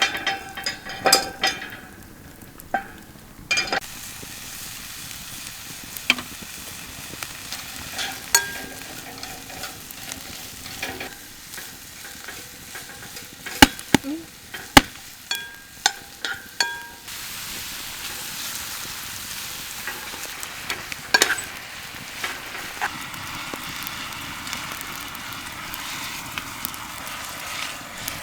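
Meat sizzling on a grill over a campfire, a steady sizzle that grows brighter about halfway through, with scattered sharp clicks and taps.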